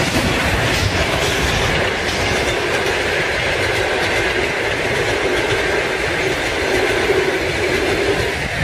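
Passenger train running through a level crossing: a loud, steady rumble of its wheels on the rails.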